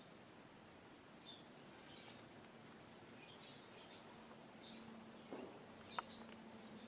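Faint, scattered short high chirps of small birds, several calls a second apart, over a faint steady hum. A sharp click comes about six seconds in.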